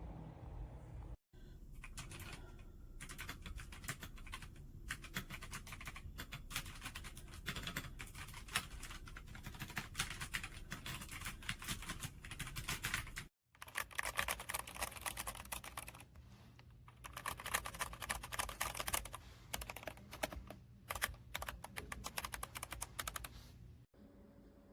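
Typing on a Redragon K556 mechanical keyboard with brown switches: rapid, continuous keystroke clacks, briefly thinning out about two-thirds of the way through.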